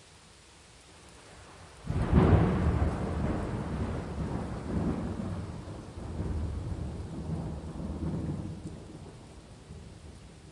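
Thunder over steady rain: about two seconds in a thunderclap breaks suddenly, then rolls on in several swells and dies away near the end, with the rain hiss beneath it.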